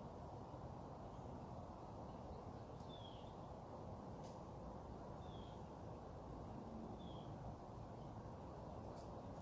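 A bird giving three short, falling chirps a couple of seconds apart over steady low background noise.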